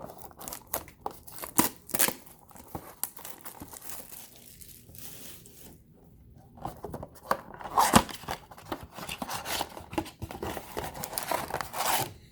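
Packaging of a blaster box of trading cards being torn open and crinkled: sharp rips and crackles of wrapper, scattered at first and thicker over the last few seconds.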